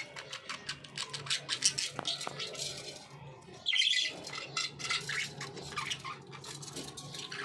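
Young budgerigars chattering in rapid high chirps, with one louder, harsher squawk about four seconds in.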